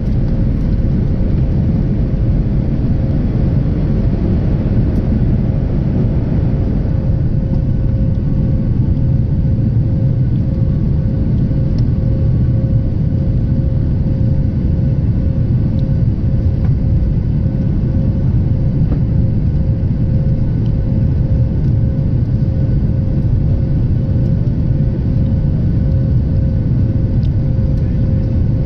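Boeing 737 jet engines running with a loud, steady low rumble and a constant droning tone. A hiss in the higher range eases off about seven seconds in.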